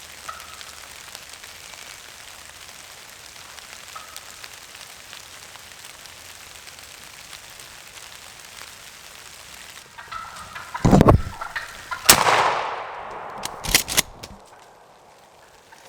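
Steady rain pattering, then, near the end, a few loud sudden thumps and rustles close to the microphone, after which the rain noise drops off.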